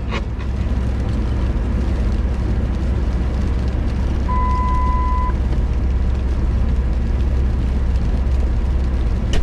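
Car running on the road, a steady low rumble, with a single steady beep lasting about a second near the middle.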